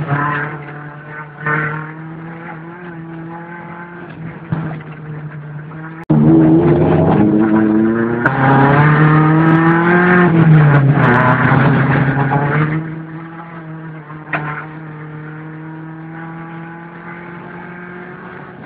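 VW Golf Mk2 rally car's engine heard from inside the cabin while driving hard on a dirt road. It runs at a steady note, turns much louder about six seconds in, rises in pitch under acceleration and falls back, then drops to a quieter steady run about thirteen seconds in. A few sharp knocks come through now and then.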